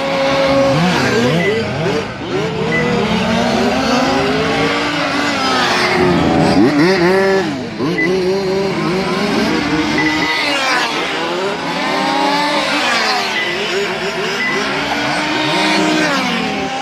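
Several 1/5-scale radio-controlled touring cars with Zenoah two-stroke petrol engines racing together, their engines overlapping and rising and falling in pitch as they rev up and back off.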